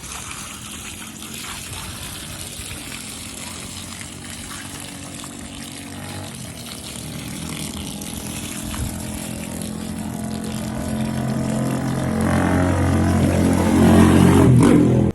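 A motor-driven machine running with water rushing. Its hum grows steadily louder over the last few seconds, then cuts off abruptly.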